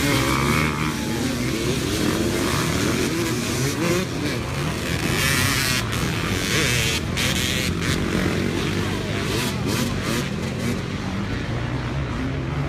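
A field of dirt bikes running together, many engines overlapping at different pitches that rise and fall as the riders work the throttles.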